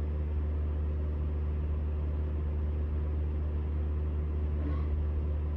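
Smithy CB-1220XL 3-in-1 lathe running, a steady low hum that holds one pitch.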